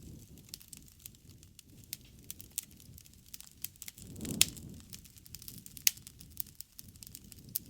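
Wood campfire crackling, with many small snaps and a few sharp pops, the loudest about four and a half seconds in and another near six seconds. A brief low rushing swell comes just before the loudest pop.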